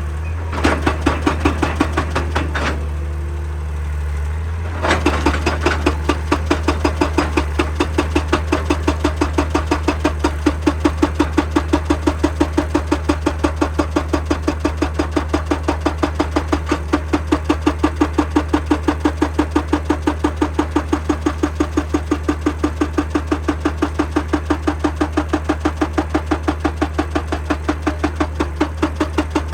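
Excavator-mounted hydraulic rock breaker hammering rock in a fast, even rhythm over the excavator's steady diesel engine hum. It hammers briefly, stops for about two seconds while the engine runs on, then starts again about five seconds in and keeps pounding without a break.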